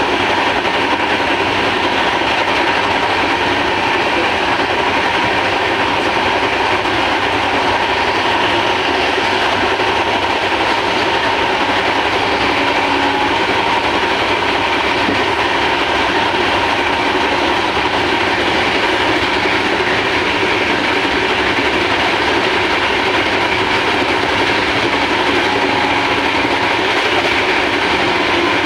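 Steady loud running noise of a moving express train, heard from inside a coach at the window: wheels rolling over the rails, even throughout.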